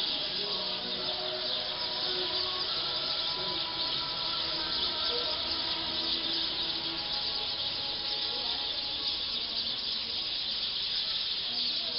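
A large roosting flock of black birds calling all together, a dense, unbroken, high chatter. It is the noise of the flock settling into its night roost tree.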